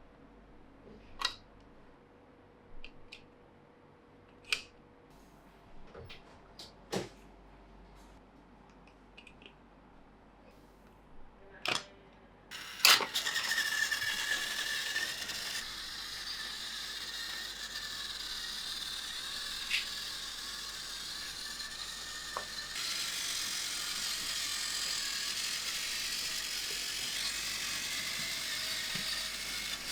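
Scattered plastic clicks, then a sharp click about thirteen seconds in as a battery-powered Plarail toy train is switched on; its small motor and gears then whir steadily with a high whine and rattle over the plastic track, getting louder about ten seconds later.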